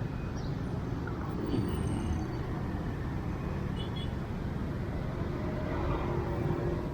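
Steady city street traffic: a continuous din of passing vehicle engines and tyres.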